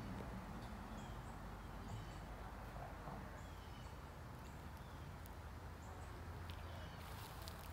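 Quiet outdoor ambience: a low steady rumble with faint, short, high bird chirps repeating about once a second, and a few sharp clicks near the end.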